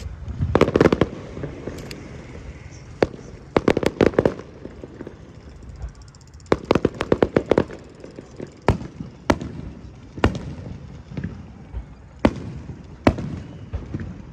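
Fireworks going off: three quick clusters of sharp cracking bangs, each about a second long, with single loud bangs every second or so in between.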